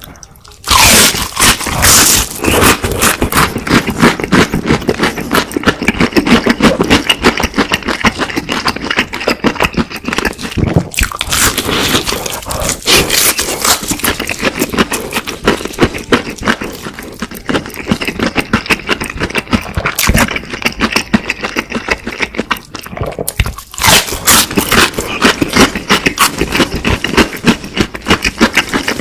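Close-miked bites and chewing of crispy fried chicken: a dense run of loud crunches and crackles from the fried batter coating, loudest at the first bite and again near the end.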